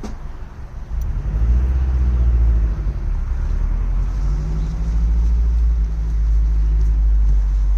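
A motor vehicle's engine running close by, a low rumble whose pitch shifts up and down for the first few seconds and then holds steady.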